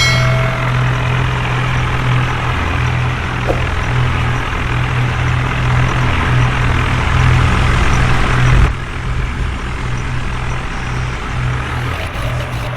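Tractor diesel engine running steadily with a deep, even drone; the noise above it drops off suddenly about two-thirds of the way through.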